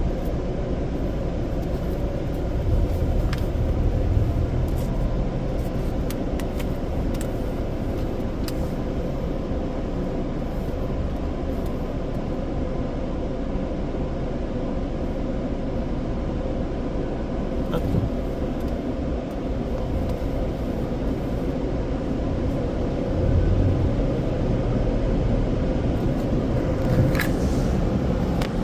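Touchless automatic car wash's dryer blowers running steadily on the vehicle ahead, a constant rushing noise with a low rumble underneath.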